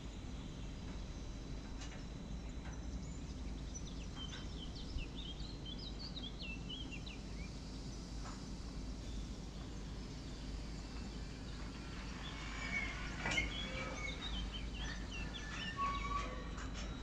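Small birds chirping in short, quick runs, twice, over a steady low background rumble, with one sharp click about 13 seconds in.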